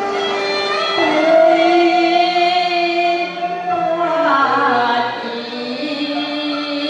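Cantonese opera singing: a voice holding long, wavering notes that slide between pitches, with instrumental accompaniment.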